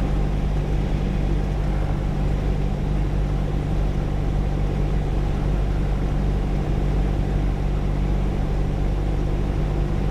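Light single-engine piston airplane's engine and propeller running at steady power, an even low drone.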